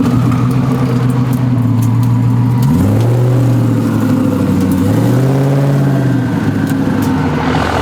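A truck engine running at idle, its note rising twice: once about a third of the way in, and again in a brief rise and fall in the middle.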